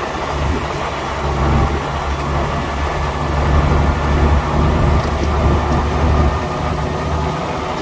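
Bulldozer's heavy diesel engine running steadily under load, a continuous deep rumble with a noisy mechanical wash over it.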